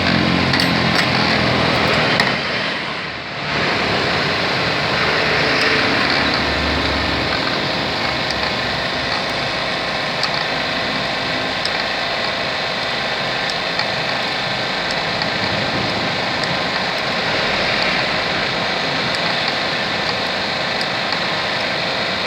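Steady vehicle engine and traffic noise, with a short dip about two to three seconds in and a few faint ticks.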